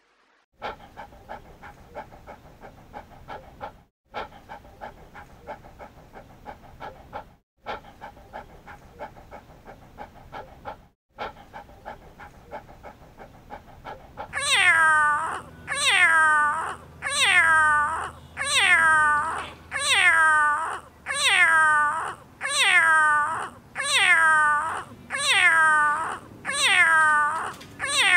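A cat meowing, the same falling meow repeated about ten times, one every second and a half, starting about halfway through. Before it there is a quick run of short chirps or clicks over a steady tone, repeating every few seconds.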